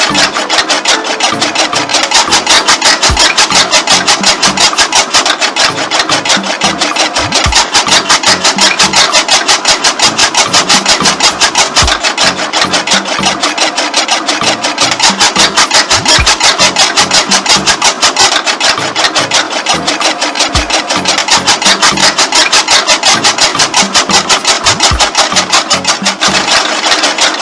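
Small motor-driven machine running with a rapid, even clatter of about five or six beats a second.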